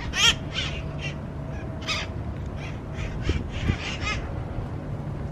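Wild parrot giving a series of short, harsh, raspy squawks, about ten in five seconds, the loudest near the start and about two seconds in.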